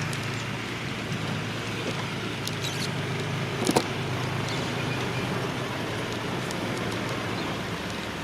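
Old Komatsu bulldozer's diesel engine running steadily, with a few sharp metallic clicks, the loudest about four seconds in.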